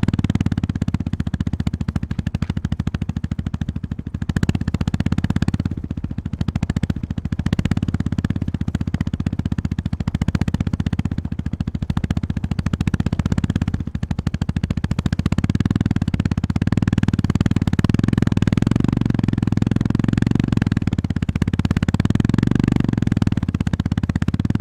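Honda GB350S single-cylinder engine running under way, its firing pulses steady, easing off briefly a few times and picking up again.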